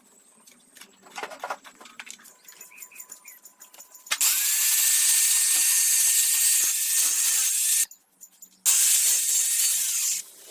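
A handheld power tool runs in two bursts: first about three and a half seconds, its whine rising as it spins up, then after a short pause about a second and a half more. Before it there are light clicks and handling of parts.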